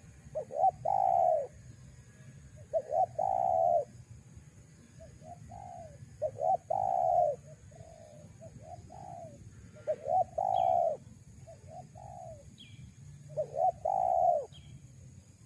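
Spotted doves cooing: short phrases of two or three coos, repeated every two to three seconds. A few faint, short, high chirps from a small bird come in during the second half.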